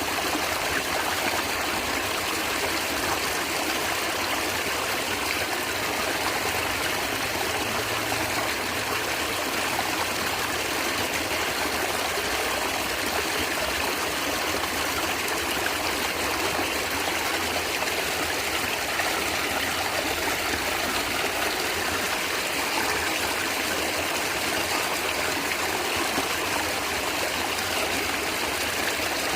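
A natural stream of water gurgling and trickling with an even, unbroken rush.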